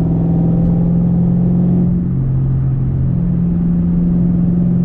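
2010 Ford Mustang GT's 4.6-litre three-valve V8 and exhaust running steadily while driving. The engine note drops in pitch about two seconds in and comes back up about a second later.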